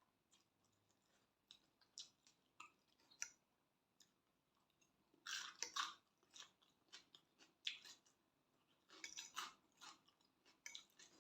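Close-mic'd chewing and mouth sounds of someone eating spicy Thai glass noodle salad: quiet wet smacks and small crunches, sparse at first and coming in louder clusters from about five seconds in.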